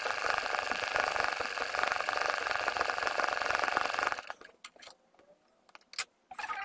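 Sewing machine stitching at a steady fast rate for machine embroidery, filling in a leaf; it stops abruptly about four seconds in, followed by a few light clicks.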